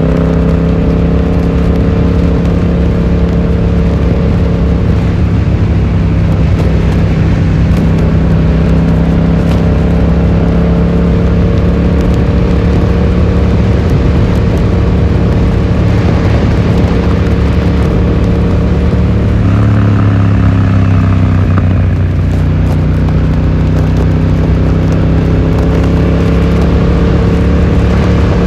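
Yamaha XSR700's parallel-twin engine running through an Akrapovic exhaust under way, a steady exhaust note over wind and road noise, muffled from being recorded in a pocket. About twenty seconds in the engine note changes and then holds steady again.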